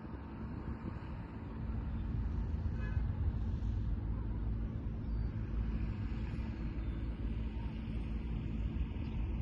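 Steady low rumble of a motor vehicle, a little louder from about a second and a half in.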